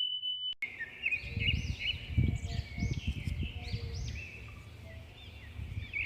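Birds chirping in quick, repeated rising-and-falling notes, over low bumping and rumbling noise. A steady high beep runs under the start and cuts off about half a second in.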